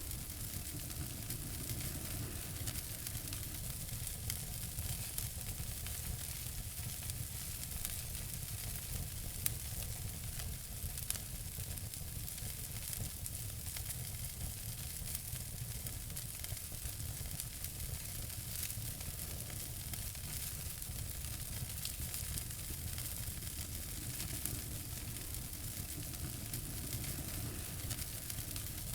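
Wood fire in a fireplace crackling steadily, with a hiss and many small snaps. Two sharper pops come about nine and eleven seconds in.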